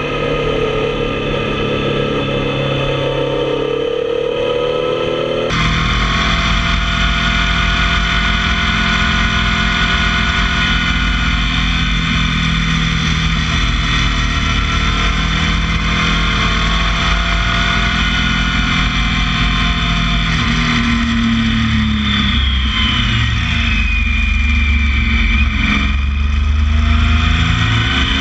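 Motorcycle engine running on the move, its pitch rising and falling with the revs. About five seconds in, the sound changes abruptly to a heavier rumble with more rushing noise.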